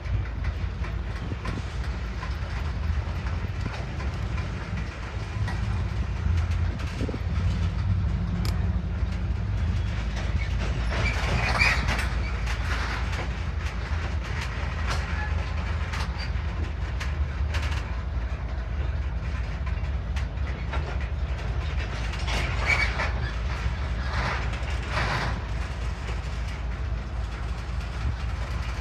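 Train rolling past with a steady low rumble of wheels on rails. Louder bursts of metallic clatter come about a third of the way in and again later on.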